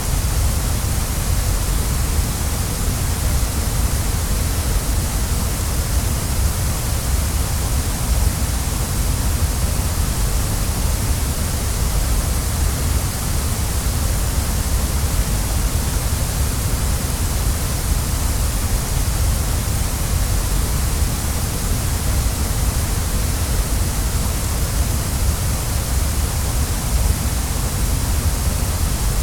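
Waterfall: a steady, unbroken rush of falling water, with a deep low rumble under a bright hiss.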